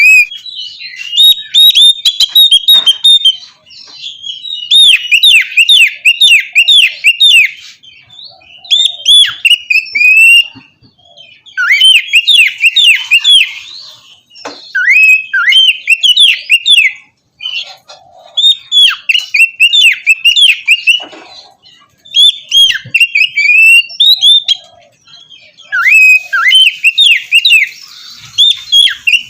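Oriental magpie-robin (kacer) singing loud, rapid whistled phrases of sweeping notes. The phrases come in bursts of a second or three, with short pauses between them.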